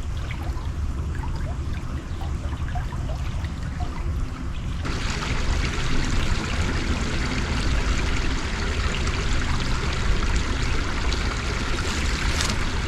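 A small woodland stream running and trickling, with a steady low rumble underneath. About five seconds in the rush of water suddenly grows much louder and fuller.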